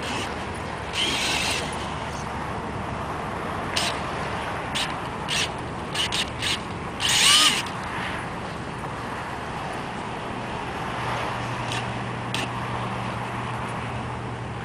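Remote control truck's small electric motor whirring in a series of short bursts as it is driven, the longest and loudest about seven seconds in, over a steady background hiss; a low steady hum comes in near the end.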